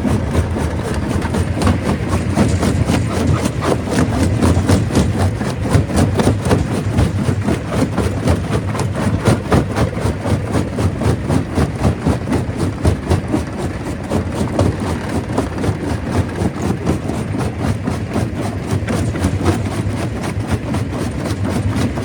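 Stone crusher running under load: a heavy engine drone with a dense, irregular clatter of rock cracking and knocking inside the machine.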